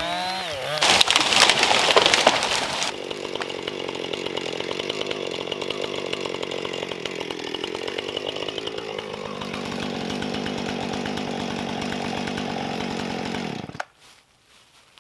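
Chainsaw cutting into pine: about a second in, a loud rasping cut that lasts about two seconds, then the saw runs on steadily with its pitch sagging a little midway, and it cuts off abruptly near the end.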